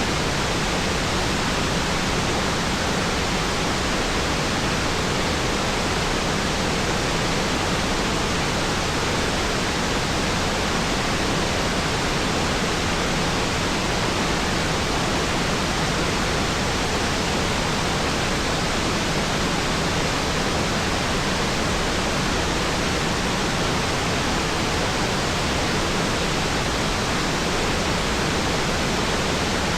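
Waterfall pouring: a steady, unbroken rush of water.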